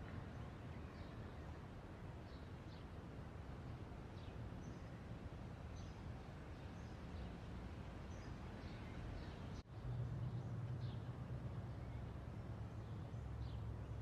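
Background ambience: a steady low rumble with faint, scattered bird chirps. About two-thirds of the way through the sound drops out for a moment, and after that a low hum is a little louder.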